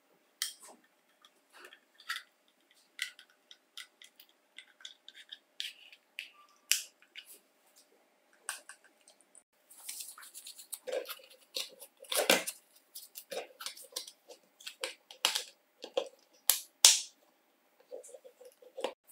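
Irregular small clicks and taps of hard tool parts being handled and fitted together, busier in the second half, with one louder click near the end.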